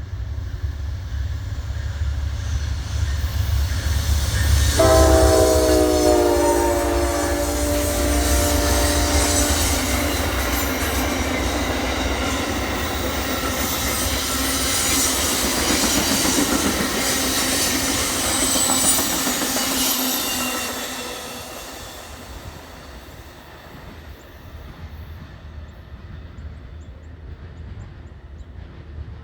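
GE P42DC diesel locomotive passing close with a heavy engine rumble; about five seconds in its horn sounds suddenly, dropping slightly in pitch as it goes by. Passenger cars then roll past with wheel noise and high-pitched wheel squeal on the curve, until the train has passed about twenty seconds in.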